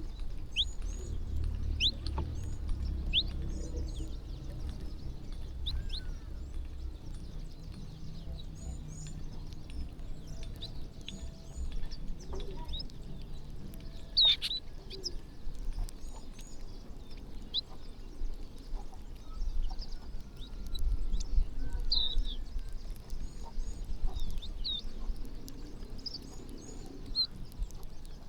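A flock of small birds chirping as they feed, with many short, high calls overlapping and one louder call about halfway through. A low rumble runs underneath.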